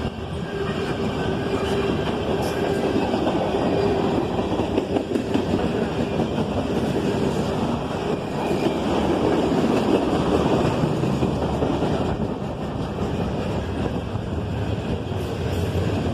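Freight train passing, its cars rolling steadily by on the rails.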